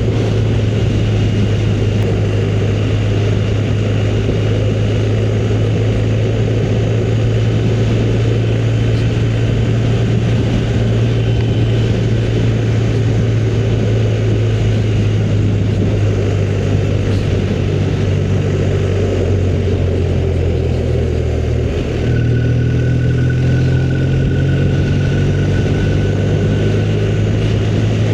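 Motorcycle engine running steadily under way, with wind rush from riding. About three-quarters of the way through the sound dips briefly and the engine note changes, as with a gear change.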